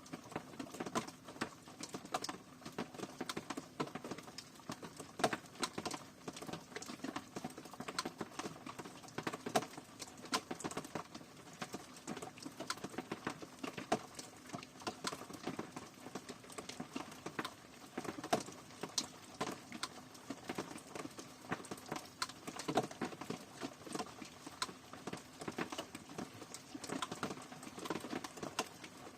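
Rain pattering: a dense, irregular stream of sharp drop hits over a light steady hiss, with no steady rhythm.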